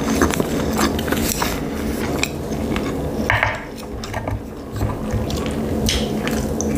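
Close-miked mouth sounds of chewing sushi, with many small wet clicks. About three seconds in, wooden chopsticks scrape and tap on the wooden board while picking up pickled ginger.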